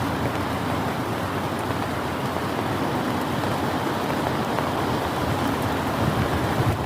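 Heavy rain falling steadily with strong wind gusting through it, a dense even rush with a low rumble, the wind a little stronger near the end.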